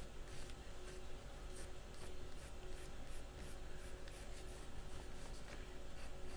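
Pencil scratching on watercolor paper in repeated short strokes, drawing circles freehand.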